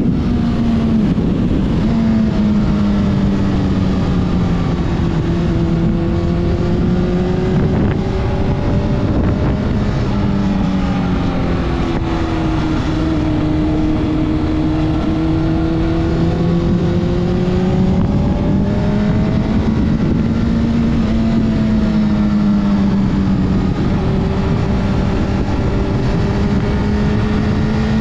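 Honda CBR600RR's inline-four engine running through a series of bends, its pitch sinking off the throttle and climbing again several times, then holding steady near the end, with wind noise on the camera's built-in microphone.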